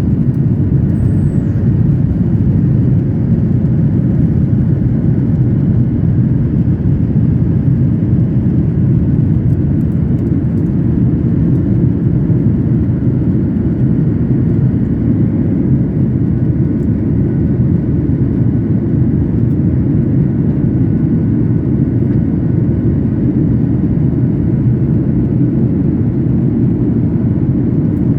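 Steady cabin noise of a jet airliner in flight: an even, low engine and airflow rumble heard from inside the passenger cabin.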